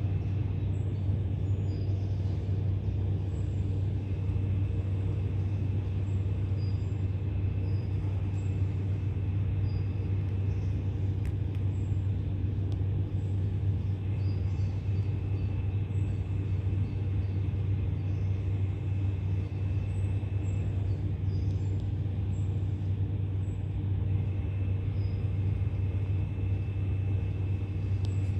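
Steady low machine hum with a strong deep drone and a few fainter tones above it, unchanging throughout, with faint high chirps here and there.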